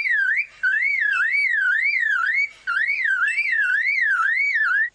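Superb lyrebird mimicking a car alarm: a loud whistled tone warbling up and down about three times a second, in phrases broken by two brief pauses, stopping abruptly at the end.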